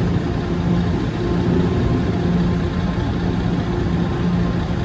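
A fire engine's diesel engine running steadily at idle, a low, even hum with no siren sounding.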